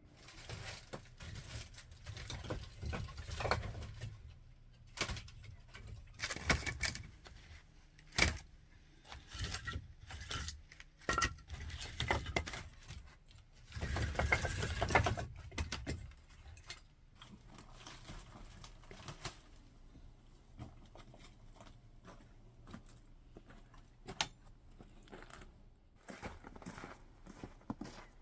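Irregular clatter, rustling and knocks of objects being handled, busiest in the first half and sparser later.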